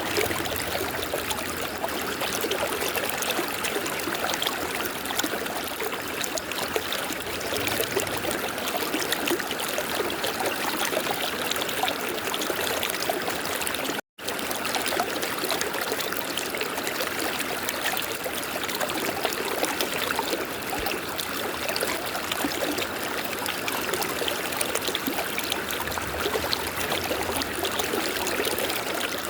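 A river flowing steadily, an even rush of water. The sound cuts out completely for a split second about halfway through.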